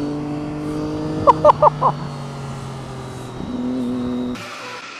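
A motorcycle engine runs at a steady pitch, with four quick, loud, high-pitched chirps about a second and a half in. The engine sound cuts off abruptly near the end, leaving a quieter hiss.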